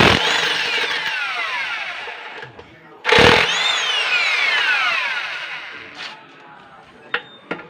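Power impact wrench fired in two short bursts about three seconds apart, each followed by a falling whine as the motor spins down, with a few light clicks near the end. This is the sound of bolts being loosened while a diesel engine is torn down.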